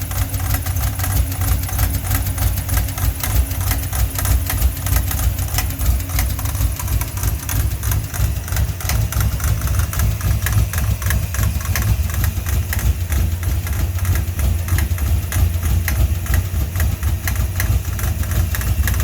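Ford 5.0 302 V8 idling with a steady clatter from its serpentine belt drive. The belt, fitted after a smog pump delete, is a little too long (a 90-inch where an 89.5-inch is needed), so it knocks.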